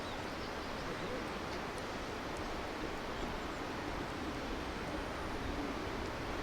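Steady rushing of a flowing river, an even noise at a constant level.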